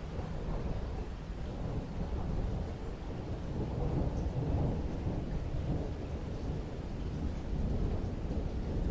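Thunder rumbling low and long over steady rain, the rumble swelling and fading in waves.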